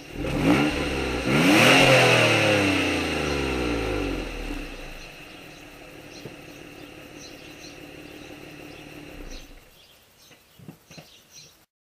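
Mazda 6s V6 straight-piped from the Y-pipe back, revved twice in quick succession, the second rev higher, then falling back to a steady idle. Near the end the engine sound fades, with a few small clicks before it cuts off.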